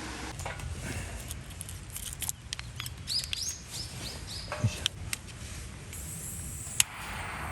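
A small bird calling: a quick run of about five high chirps around three seconds in. Scattered sharp clicks and snaps come and go throughout, with one loud click near the end.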